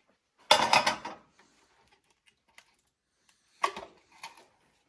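Clicks and clatter of plastic parts being handled and pried apart on a dryer's control board housing: a dense burst of clicks about half a second in, another near three and a half seconds, with a few small ticks between.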